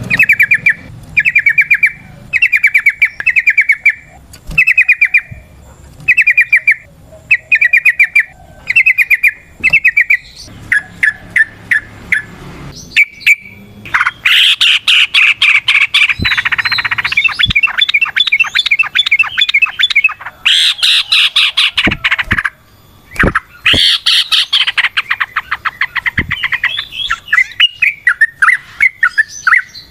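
Yellow-vented bulbul (trucukan) singing. For the first ten seconds or so it gives short, rapid chattering phrases about once a second, then about halfway it breaks into long, fast runs of chattering notes with a few brief pauses: the long 'ropel' song.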